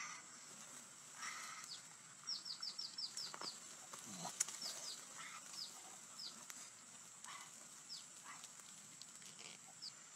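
Faint high chirps of small birds, each a quick downward note: a fast run of about seven a couple of seconds in, then scattered single chirps.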